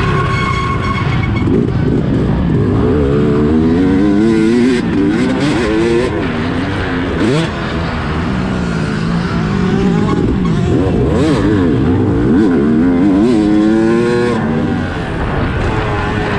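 Motorcycle engine revving hard under the rider, its pitch climbing and falling again and again with the throttle, with a brief drop about seven seconds in.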